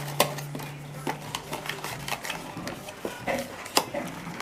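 Hands handling the cardboard and plastic packaging of a figure box: scattered light clicks and taps, with a low steady hum that stops about two seconds in.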